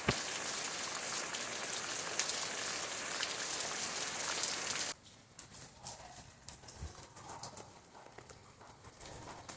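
Steady heavy rain falling on tree leaves, an even hiss. About five seconds in, it gives way to a much quieter stretch of faint, scattered drops and taps.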